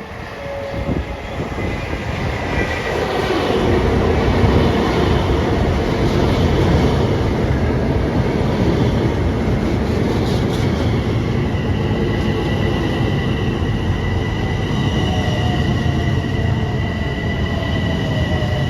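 Long Island Rail Road train running past on the tracks. The rumble and rush of wheels on rails build over the first few seconds and then hold steady and loud. From about twelve seconds in, a thin, steady high tone rides on top, like wheel squeal or motor whine.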